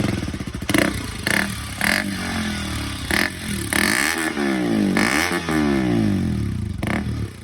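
KTM RC200's single-cylinder engine revved through an aftermarket Akrapovic exhaust with its dB killer fitted. It gives a string of quick throttle blips, then two longer revs that rise and fall in pitch near the middle.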